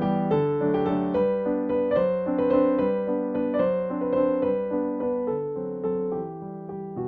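Background music: a soft piano melody played note by note over held chords.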